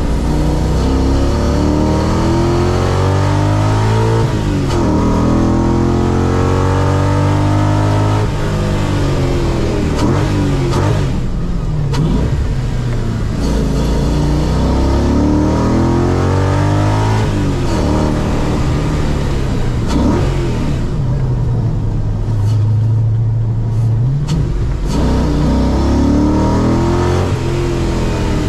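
Audi V8 engine swapped into a Porsche 986 Boxster, heard from inside the cabin as the car is driven hard on track. It repeatedly revs up in pitch as it accelerates and drops back on gear changes and lifting off, with a quieter, lower-revving stretch about three-quarters of the way through.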